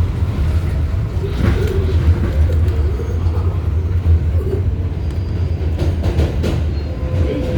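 R188 subway train running between stations, heard from inside the car: a steady, heavy low rumble of wheels on rail, with scattered short clicks and knocks.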